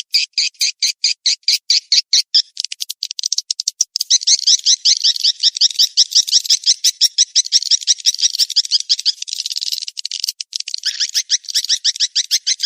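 Swiftlet calls from a lure recording of the mating-chase call: rapid high chirps repeated many times a second in dense, buzzing trains. About three seconds in they thin out for a moment into scattered clicks, then pick up again.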